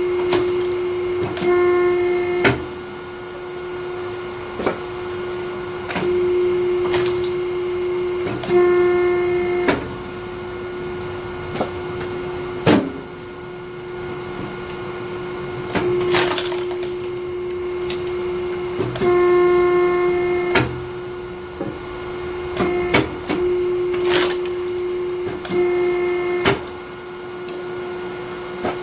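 Hydraulic log splitter running with a steady hum that swells every few seconds as the ram works under load. Sharp cracks and knocks of wood splitting come at irregular intervals about every three to four seconds, with short squeals.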